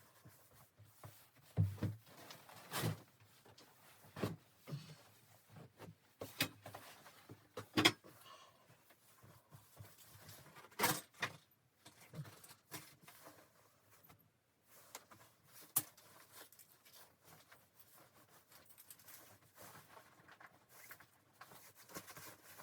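Irregular knocks, clicks and rustles of objects being handled in a small room, loudest at about 2, 8, 11 and 16 seconds in.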